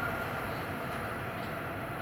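Metro-North M8 electric multiple-unit commuter train running away along the tracks, its wheel-on-rail running noise steadily fading.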